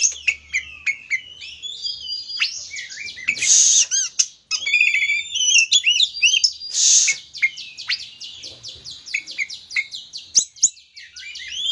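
Oriental magpie-robin (kacer) in full, vigorous song: a fast, varied run of high whistles, glides and chirps, broken twice by a short harsh rasping note, with a quick series of repeated notes later on. This is the loud 'gacor' song of a male, the kind played to provoke another kacer into singing.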